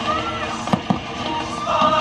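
Fireworks show soundtrack of choir and orchestral music, with two sharp firework bangs close together about three-quarters of a second in.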